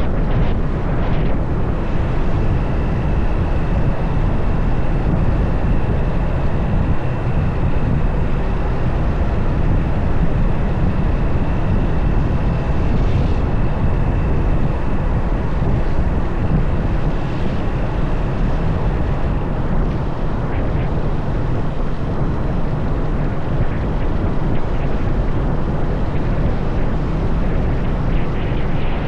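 Motorcycle on the move: the engine runs steadily under a heavy rumble of wind on the microphone. A faint, steady high-pitched whine sits over it for the first two-thirds.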